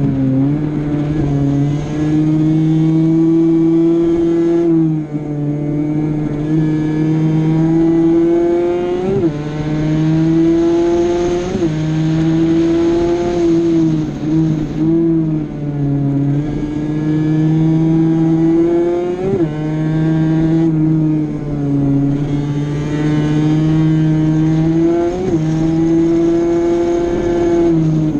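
Honda NSR50 mini motorcycle's 50cc single-cylinder two-stroke engine running hard around a kart track. The engine holds a steady high pitch for stretches and breaks about five times with a brief dip and jump, as the throttle is rolled off and gears are changed.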